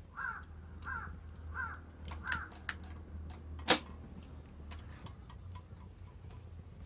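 Four short, harsh bird calls in an even series, about one every 0.7 seconds, then a loud sharp pop a little past the middle, the crack of burning wood in a bonfire, with scattered fainter ticks around it.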